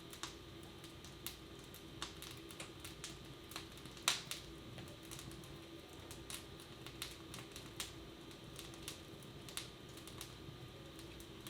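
Wood fire in a fireplace crackling, with sparse, irregular sharp pops, one louder than the rest about four seconds in, over a steady low hum of room ambience.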